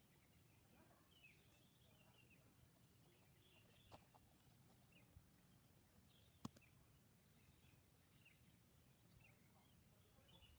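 Near silence with faint, scattered chirps of distant birds and two sharp clicks, about four and six and a half seconds in.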